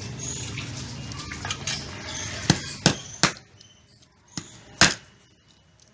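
A series of sharp clicks and knocks from hard objects being handled, five in about two and a half seconds, over a low background hum that fades out about halfway through.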